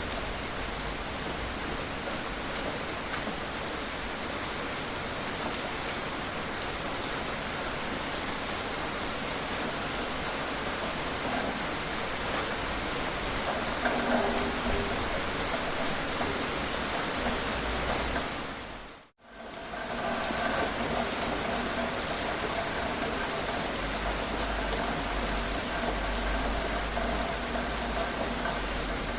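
Steady gentle rain falling, an even hiss with scattered drops. About nineteen seconds in it fades briefly to silence and comes straight back, with a faint hum under the rain afterwards.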